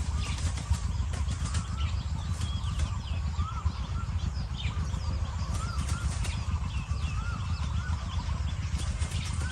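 Wild birds chirping with short, repeated, wavering notes over a steady low rumble.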